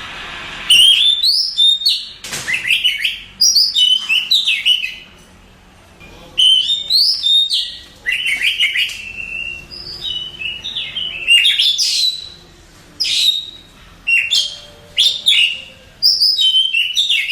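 Oriental magpie-robin (kacer) singing: loud phrases of varied whistles, slurred notes and rapid trills, each lasting a second or two with short pauses between.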